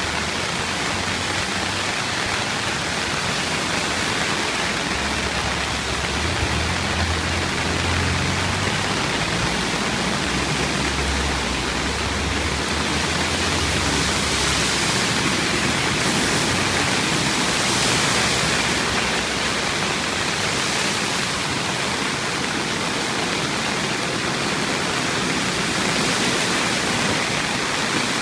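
Steady rushing hiss of heavy typhoon rain and water pouring from an overflowing roadside ditch over a flooded road, with a low rumble from about five to fifteen seconds in.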